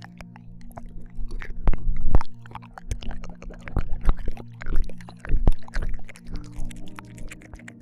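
ASMR ear-licking mouth sounds close to a binaural microphone: irregular wet clicks, smacks and licks. A soft, steady background drone of held low tones runs underneath.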